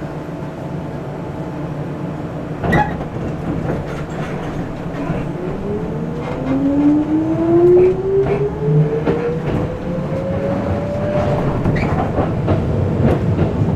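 Keisei 3400-series electric train heard from inside the passenger car, a steady running rumble with a sharp clack about three seconds in, then the traction motor whine rising in pitch as the train picks up speed.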